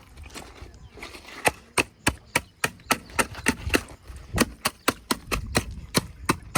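Sharp knocks on wood in a steady rhythm, about three a second, like quick chopping.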